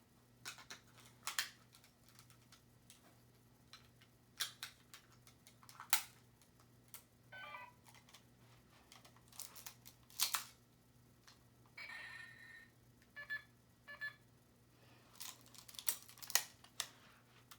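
Scattered light plastic clicks and taps of a battery-powered toy phone being handled, with a few faint short electronic tones about seven seconds in and again around twelve to fourteen seconds in.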